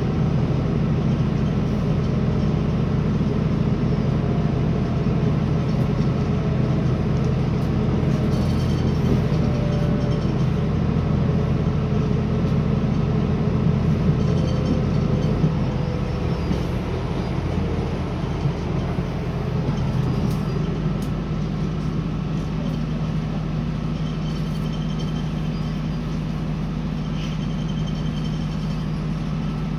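Cabin sound of a CAF Class 3000 diesel multiple unit slowing into a station: a steady low engine and running hum with a faint falling whine as it brakes. It settles to an even, slightly quieter idle once stopped, in the last third.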